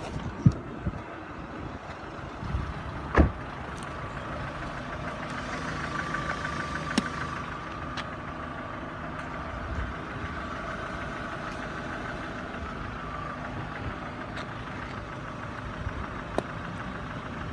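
A 2008 Kia Ceed engine running steadily with a few sharp knocks at uneven intervals, the loudest about three seconds in. The owner cannot place the cause of the knocking.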